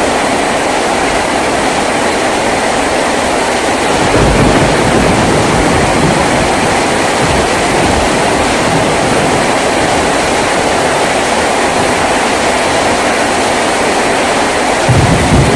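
Heavy rain drumming steadily on a tin roof, a dense, loud hiss. A low rumble underneath grows stronger about four seconds in and again near the end.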